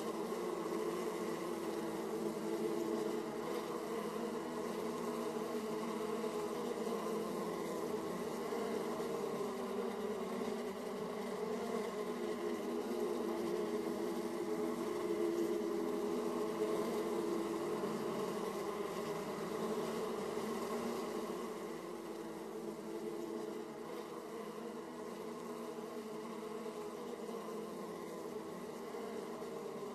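Honeybees (Carniolan and Italian) buzzing in a dense, steady hum at the hive entrance, many bees flying in and out at once. The hum eases slightly about two-thirds of the way through.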